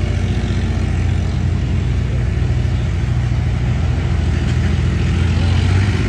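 A car engine running steadily at low revs, a deep, even exhaust rumble.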